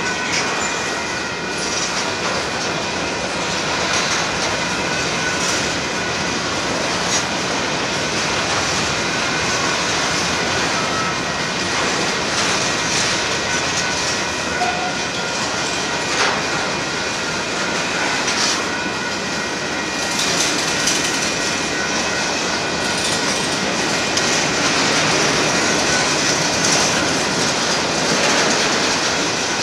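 Covered hopper cars of a Union Pacific freight train rolling past at steady speed: a continuous rattle and rumble of steel wheels on rail with frequent clicks at the rail joints, and a thin high squeal held throughout.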